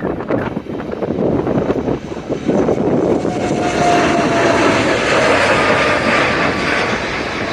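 Boeing 787-8 airliner taking off, its jet engines at takeoff power, getting louder about two and a half seconds in, with a whine that drifts slightly lower in pitch. Wind buffets the microphone throughout.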